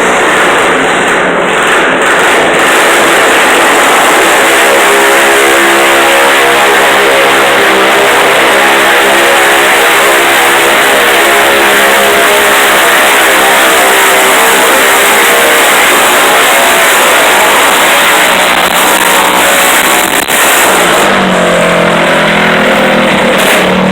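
Garden pulling tractor's engine running loud at high revs under load, its pitch dropping about 21 seconds in as the run winds down.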